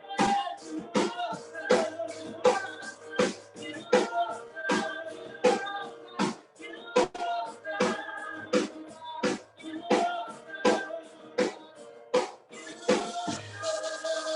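Church worship band playing without singing: a steady drum beat over held instrument chords, with a cymbal wash ringing out near the end.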